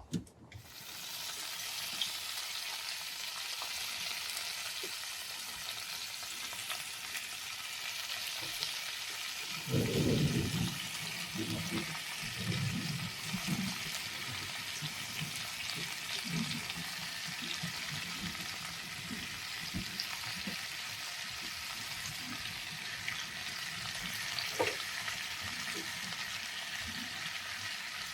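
Steady rain falling as an even hiss, with a low rumble about ten seconds in that comes back in weaker pulses for a few seconds.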